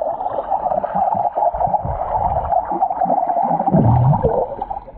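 Muffled underwater water noise picked up by a camera held under the surface of a pool. It cuts off near the end as the camera comes out of the water.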